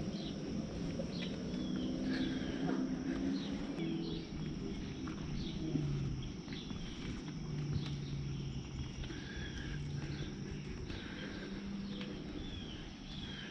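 Small birds chirping, many short high calls repeating about once a second, over a louder low drone.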